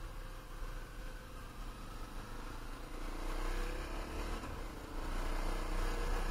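Dirt bike engine accelerating on a gravel road, heard from the bike itself under heavy wind noise on the camera microphone; the engine note rises and grows louder about three seconds in.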